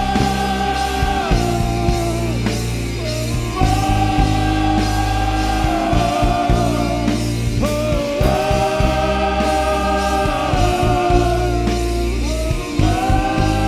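A worship band plays a rock-style song with singing. Voices hold long notes that change about every four seconds, over steady bass.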